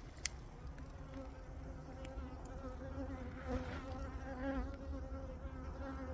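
Asian honeybees (Korean native bees) humming at their box hive, a steady, slightly wavering drone. There is one brief click about a third of a second in.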